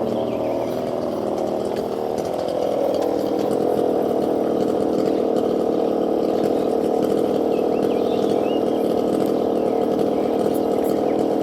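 A small engine or motor running steadily with a droning hum, growing a little louder about two seconds in, with a few faint chirps near the end.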